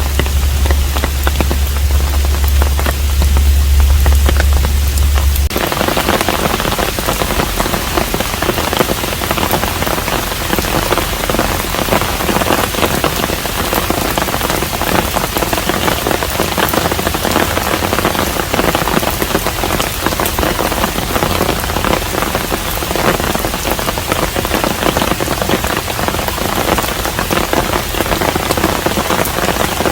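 Steady rain falling on a hanok, a traditional Korean house. A low, steady hum runs under the rain for the first five seconds or so and stops abruptly, after which the rain sounds fuller.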